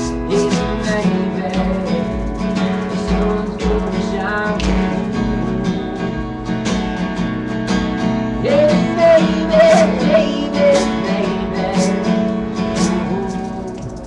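Live acoustic band music in an instrumental passage: steady, evenly strummed chords, with a wavering melody line rising over them in the middle.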